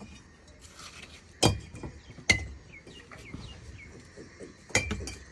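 Three sharp metallic clinks of masonry hand tools striking brick or metal, one ringing briefly after it. Between them a bird gives a run of short falling chirps.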